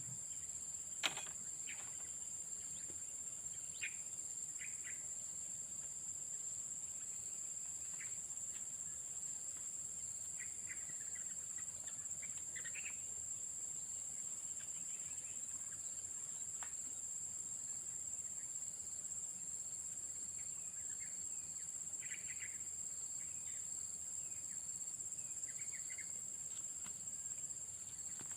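A steady high-pitched insect drone with scattered short bird chirps. A single sharp click about a second in.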